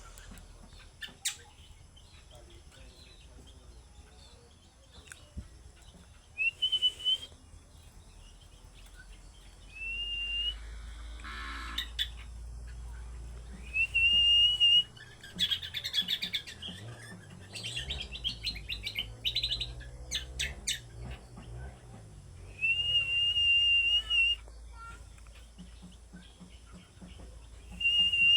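Common iora (cucak combo) singing: about five long drawn whistles that rise and then hold steady, with a run of quick chattering notes in the middle.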